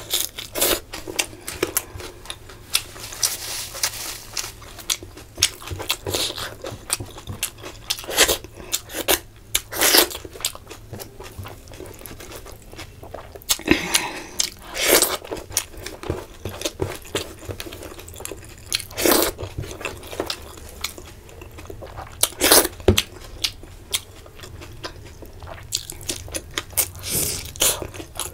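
Close-up eating sounds: a person chewing and crunching food, with wet mouth clicks throughout and louder crunchy bites every few seconds.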